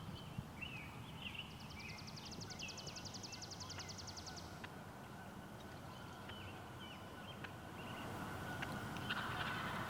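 Wild birds calling: repeated short chirps, with a rapid high-pitched trill lasting about three seconds in the first half. A brief burst of rustling noise comes near the end.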